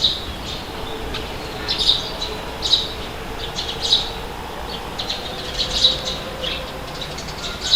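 Birds calling in short, sharp, high chirps repeated every second or so, over a steady low rumble of wind.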